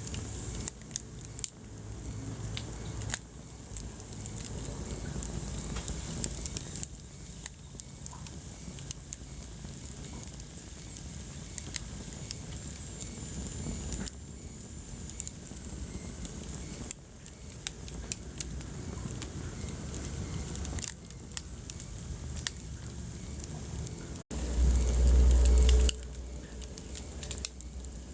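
Wood fire crackling in a fireplace: frequent sharp pops and snaps over a steady low rumble of the flames. Near the end, right after a brief dropout, a loud low rumble lasts about a second and a half.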